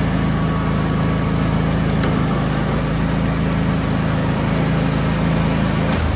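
John Deere riding lawn mower engine running steadily; right at the end its note drops and changes.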